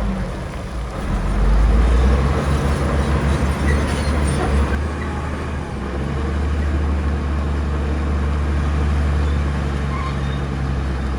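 Heavy diesel engine of earthmoving machinery running with a low, steady drone. It grows louder about a second in for a few seconds, then settles to an even run.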